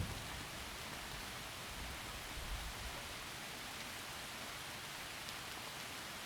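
Heavy rain falling steadily through forest trees, an even hiss. A low rumble of thunder fades out in the first moments, with a weaker swell of it about two seconds in.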